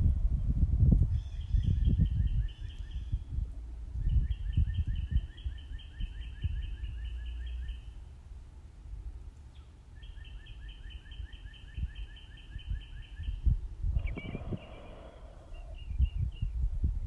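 A songbird singing three long trills of rapid repeated notes, each lasting a few seconds, with a shorter, harsher call near the end. Low rumbling and thumping run underneath.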